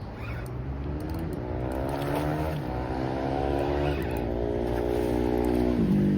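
A motor engine running and slowly rising in pitch and loudness, its pitch dropping suddenly and climbing again a few times.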